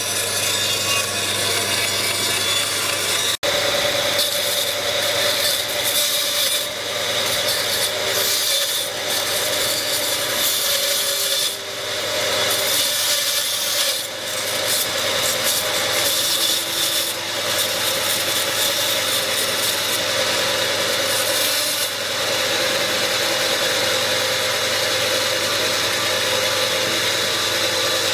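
Wood being sawn or worked with tools, a steady run of rasping and rubbing noise, with a brief break about three and a half seconds in.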